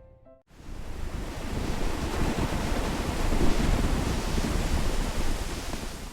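A loud, steady rushing noise with a low rumble, like wind or surf. It starts abruptly about half a second in, swells slightly in the middle and cuts off abruptly at the end.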